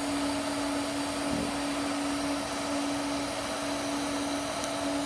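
AC TIG welding arc on aluminum, a steady buzzing hum with an even hiss.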